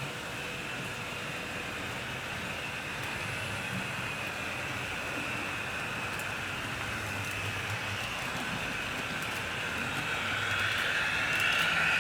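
HO scale model train running on the layout track, a steady whirr of small electric motor and wheels rolling on rails, growing louder toward the end.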